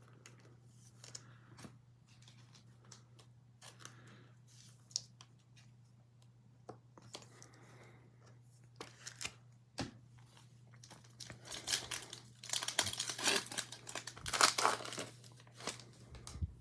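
A trading card pack's wrapper torn open and crinkled, loudest in a few seconds of tearing and crumpling near the end. Before that come scattered light clicks and rustles.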